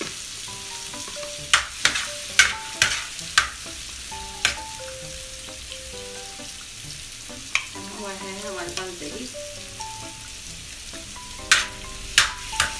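Mutton liver masala sizzling and frying on a hot tawa as yogurt is stirred into it. A metal spoon clacks and scrapes against the griddle, about five times in the first few seconds and twice more near the end.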